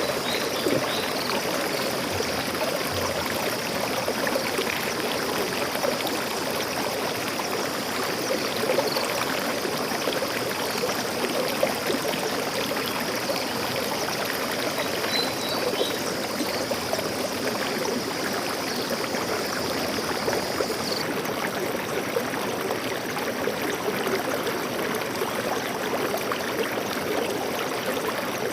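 Stream water flowing steadily over rocks, a constant rushing and trickling with no change in level.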